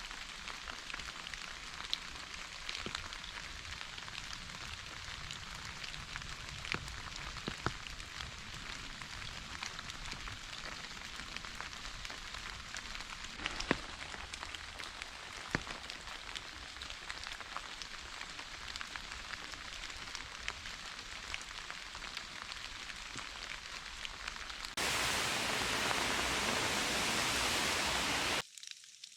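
Steady rain with individual drops ticking sharply onto a surface. About 25 s in it switches suddenly to a louder, even hiss for a few seconds, which cuts off abruptly into a quieter, thinner patter.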